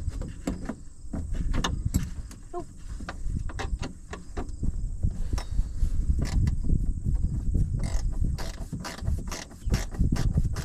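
Hand tools working at a stuck nut on an old tractor's hand throttle linkage: irregular metal clicks and scrapes, many close together, over a low rumble.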